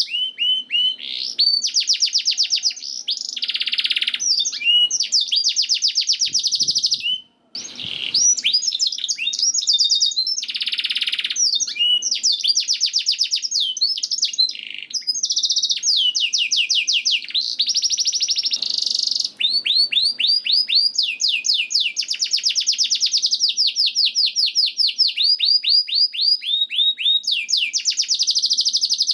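Canary singing a long, nearly unbroken song of fast high trills, switching from one trill pattern to the next every second or two, with a short pause about seven and a half seconds in.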